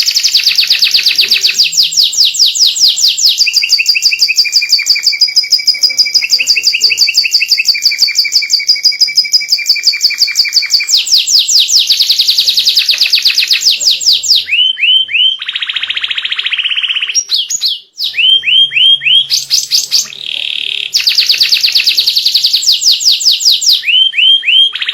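White domestic canary singing a loud, continuous song of rapid trills and rolls. The repeated notes change pattern every few seconds, with a brief break in the middle.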